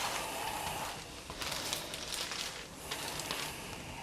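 Silicone colour shaper wedge scraping and spreading acrylic paint across a paper journal page, in a series of swishing strokes with some rustle of the paper.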